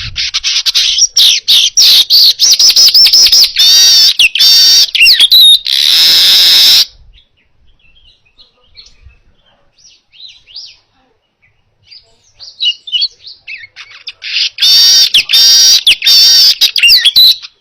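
Manyar (weaver bird) singing loudly: a long run of rapid, crowded chattering notes and trills, a lull of several seconds with only soft chips, then a second loud burst of the same song near the end.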